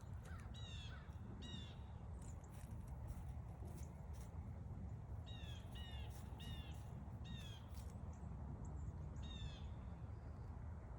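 A crow cawing about seven times, each caw short and falling in pitch: a pair near the start, then a run of five from about five seconds in. A steady low rumble of outdoor ambience lies underneath.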